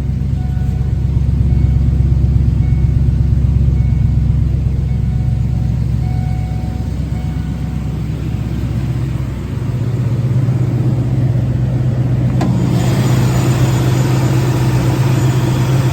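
1992 Ford Mustang LX engine idling steadily shortly after a cold start. A broader hiss joins it about twelve seconds in.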